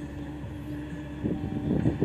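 Distant approaching diesel-hauled commuter train, a steady low hum, with a louder irregular rumble coming in a little past a second in.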